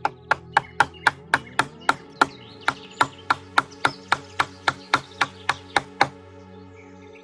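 A hand tool striking wood in a fast, even run of about twenty sharp chopping blows, roughly four a second, that stops about six seconds in. Background music plays underneath.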